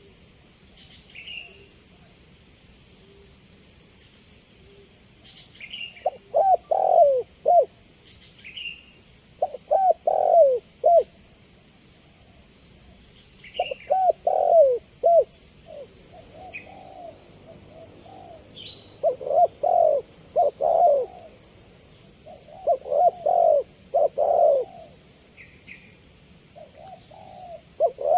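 Spotted dove cooing in repeated phrases of several quick notes, a phrase every three to four seconds. Brief high chirps from another bird fall between the phrases over a steady high hiss.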